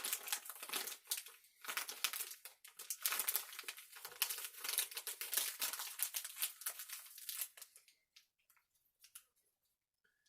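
Plastic cold-pack bag crinkling as it is wrapped tightly around a mixture of ammonium nitrate and aluminum powder. The crinkling stops about three quarters of the way through, leaving only a few faint ticks.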